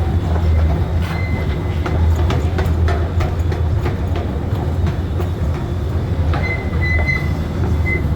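Train running on the rails: a steady low rumble with scattered clicks of the wheels over the track, and a thin, high wheel squeal that sets in about six seconds in.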